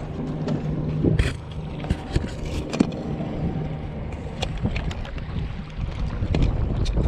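Boat's outboard motor idling in neutral, under wind buffeting the microphone, with a few sharp knocks about a second in and again near three seconds.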